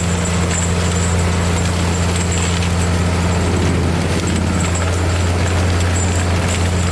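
Claas Xerion 3800 tractor with an AHWI forestry mulcher running steadily: a deep, even drone with a thin high whine that grows stronger now and then.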